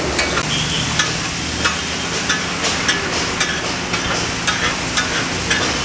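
Raw chicken pieces sizzling as they are stir-fried on a large flat iron griddle (tawa). A flat metal spatula scrapes and turns them, clicking against the griddle about two or three times a second.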